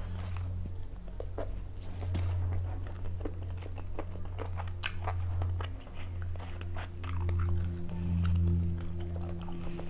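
Close-miked chewing and wet lip-smacking of someone eating mutton biryani with her hand, with many short sharp mouth clicks, over a steady low hum that swells and fades.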